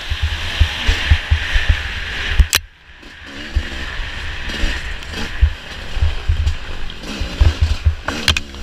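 Off-road race machine's engine revving up and down as it is ridden over rough ground, heard close up, with frequent low thuds of bumps and wind buffeting on the microphone and a sharp click about two and a half seconds in.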